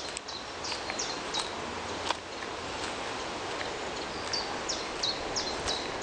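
A small songbird singing a series of short, high, falling notes, about three a second. One run of four notes comes at the start and another about four seconds in, over a steady outdoor background hiss.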